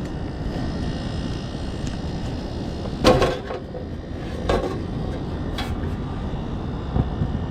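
Sheet-metal service cover of an old Carrier condensing unit being pulled off and handled: a loud rattling clank about three seconds in, a second clank a moment later, then lighter knocks, over steady low rumbling noise.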